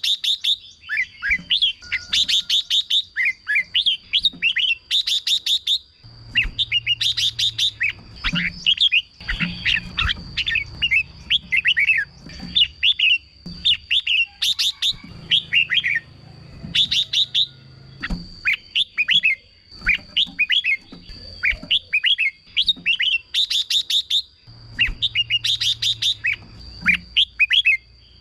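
Red-whiskered bulbul singing short, quick warbled phrases over and over, mixed with bursts of rapid ticking notes. A steady high thin tone runs underneath.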